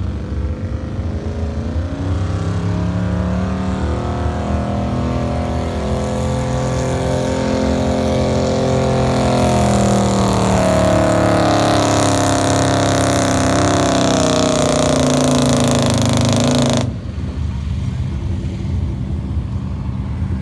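A pulling truck's engine running hard at high revs under load, its pitch climbing and shifting as the truck drags the sled, for about seventeen seconds before it cuts off suddenly.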